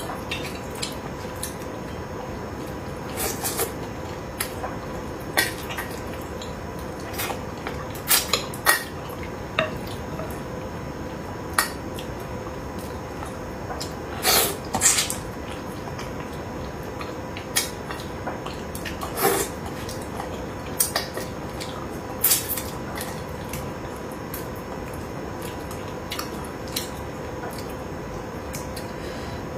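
Eating utensils clicking and clinking against dishes at irregular intervals, with small wet eating sounds, over a steady background hiss and faint hum.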